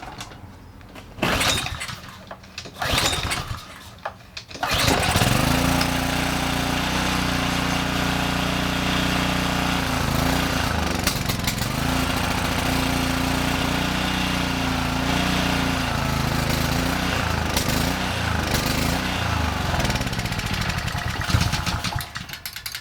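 Honda small engine of a Kärcher pressure washer, run with its pump removed, pull-started cold on choke: two pulls on the recoil starter, then it fires and catches about five seconds in and runs steadily until it is shut off near the end.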